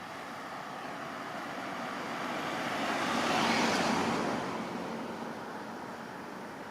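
A road vehicle passing by: a tyre-and-engine noise that swells to its loudest about halfway through, then fades away.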